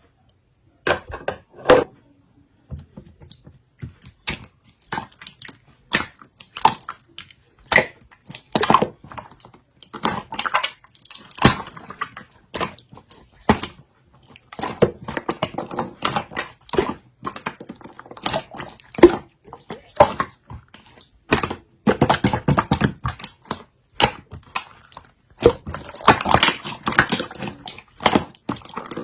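Clear yellow slime being played with by hand: an irregular run of sticky clicks and pops, growing busier and crackling more densely in the second half.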